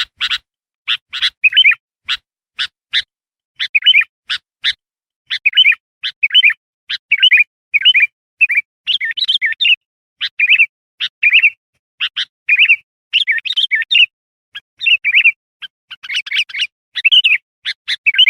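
Kutilang bulbul calling without pause: sharp short chip notes mixed with quick, bubbly whistled phrases, several a second, with brief gaps between them.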